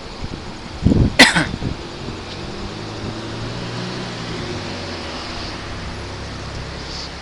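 Close thunder: a sharp crack about a second in, followed by a low rumble that rolls on for several seconds.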